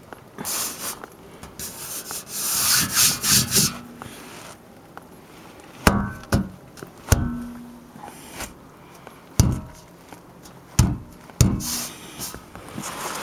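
Scraping and rubbing for a few seconds, then about five sharp knocks, some with a brief metallic ring, as metal parts of an engine skid plate are handled and fitted.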